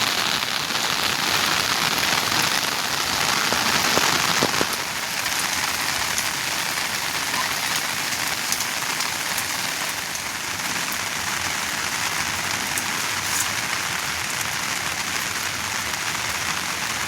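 Monsoon rain falling steadily, a hiss of many drops on the ground and surfaces, a little heavier at first and easing slightly about five seconds in.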